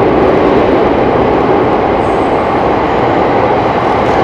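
Electric train approaching along a railway tunnel toward an underground platform: a loud, steady rumble echoing off the tunnel walls.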